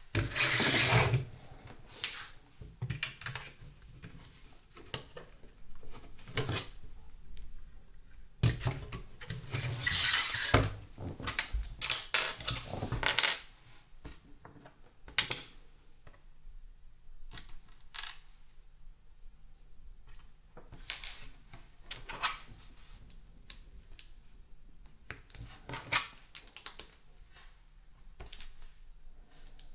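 Small plastic LEGO pieces clattering as a hand rummages through them, in a burst at the start and a longer one from about eight to thirteen seconds in, with scattered single clicks of pieces being picked up and handled in between.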